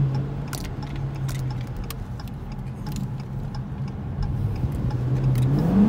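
Dodge Challenger's Hemi V8 heard from inside the cabin, running steadily at light throttle, then revving up near the end as the car accelerates. Sharp ticks sound over it, most likely the turn signal.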